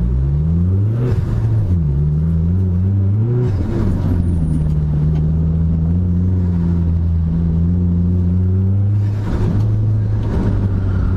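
Dodge SRT-4 Neon's turbocharged 2.4-litre four-cylinder engine driven hard. It revs up, drops about a second in, and climbs again. It then holds a steady pitch for several seconds before dipping and revving up once more near the end.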